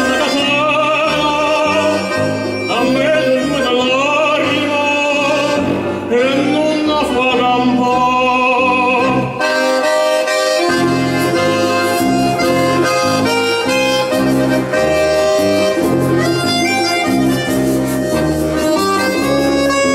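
Instrumental break of a band's song with no singing: a lead melody with heavy vibrato over a steady, pulsing bass line. The arrangement changes about halfway through.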